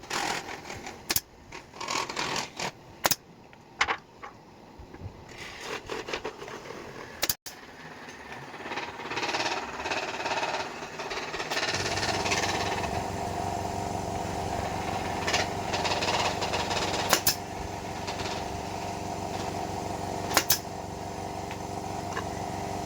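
Irregular knocks and clicks of cage parts being fitted together during bird-cage assembly. After a break about a third of the way in, a small engine starts running steadily at idle, with a few more clicks over it.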